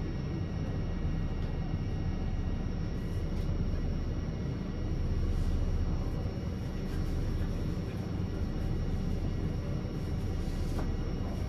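Steady low rumble inside a Fujisan View Express train carriage, with a few faint, steady high-pitched whines over it.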